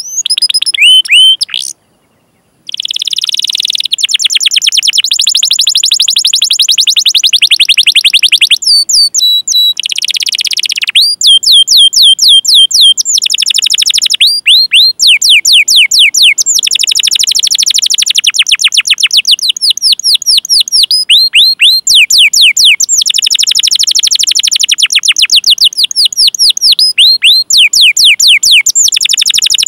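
Domestic canary singing, a long rolling song made of rapid runs of repeated high, falling whistled notes (the 'cuit cuit' calls), phrase after phrase with short breaks and a brief silence about two seconds in.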